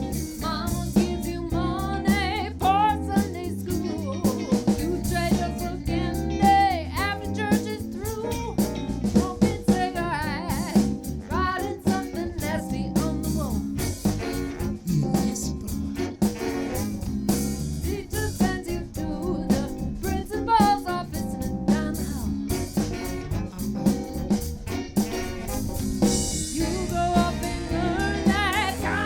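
Live band playing a song: drum kit keeping a steady beat under bass and guitar, with a singer's voice over the top.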